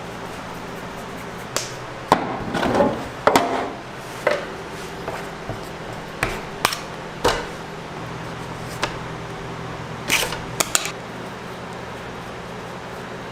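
Food-prep clatter: about a dozen sharp knocks and clatters of utensils or containers, with two short rustling, scraping stretches, over a steady machine hum.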